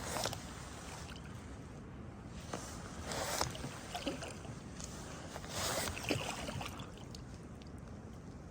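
Kayak paddle strokes in calm river water: three splashes of the blade dipping in, about every two and a half to three seconds, with lighter drips and trickles between them.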